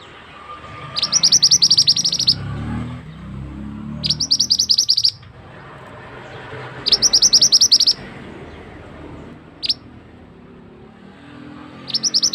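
Mantenan bird singing: four loud runs of rapid, evenly repeated high notes, each about a second long, with a single short note between the third and fourth. A steady wash of flowing water runs underneath.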